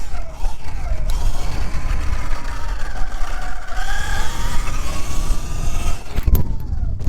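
Segway X160 electric dirt bike's motor whining as it rides, its pitch rising and falling with the throttle, over a heavy low rumble. A sharp knock comes about six seconds in.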